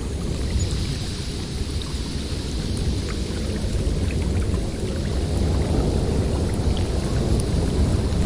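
Snowstorm wind blowing with a deep, steady rumble, and a hissing gust that swells and fades over the first few seconds. Faint scattered ticks sound through it.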